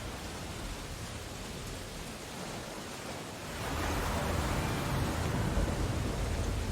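Steady rain and stormy ocean surf, a continuous hiss with a low rumble beneath, swelling louder about halfway through.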